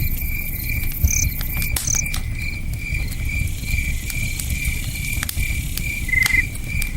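Crickets chirping in a steady rhythm, about two chirps a second, over a wood campfire crackling with scattered sharp pops and a low steady rush of a river.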